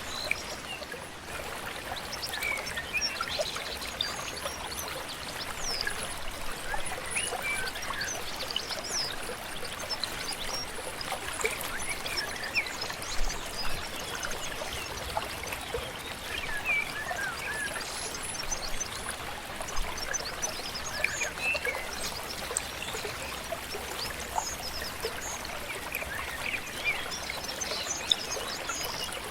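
A small stream or river trickling steadily, with many birds singing short chirps and whistles over it.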